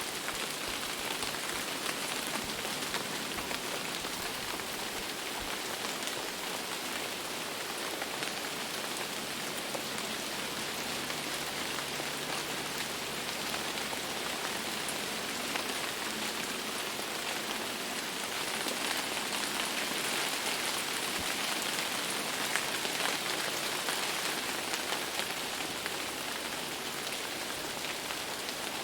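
Steady rain falling on a surface, a dense hiss of many small drops, growing slightly louder about two-thirds of the way through.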